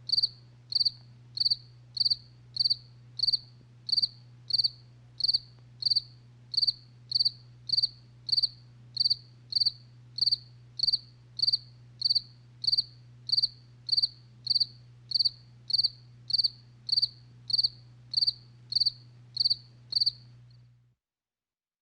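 Cricket chirping: short, high, evenly spaced chirps, about three every two seconds, over a faint steady low hum. It stops shortly before the end.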